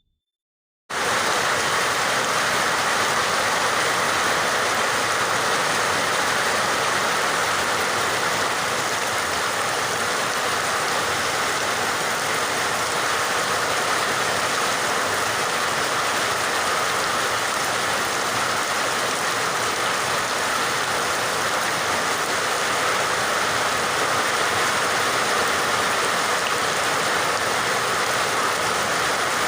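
Steady rain, a dense even hiss that starts abruptly about a second in.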